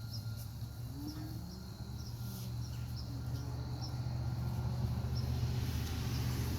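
Outdoor background: a steady low hum that slowly grows louder, with faint short high chirps repeating irregularly over it.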